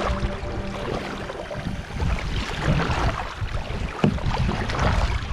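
Water swishing and splashing around a kayak moving over the sea, in repeated swishes about once a second, with wind rumbling on the microphone.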